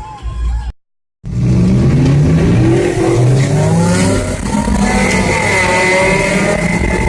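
Ford Mustang launching hard: its engine revs rise in pitch again and again as it accelerates through the gears, starting about a second in after a short gap. A steady high whine joins for the last couple of seconds.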